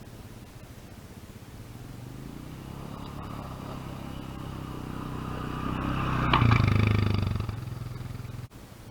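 A 450 four-wheel-drive ATV engine approaching, growing steadily louder to a peak about six and a half seconds in, then fading as it passes; the sound cuts off suddenly near the end.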